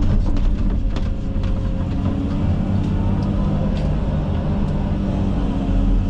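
Komatsu 360 excavator's diesel engine running steadily under working load, with brush and branches cracking and snapping, most densely in the first second or so and then a few sharp cracks later.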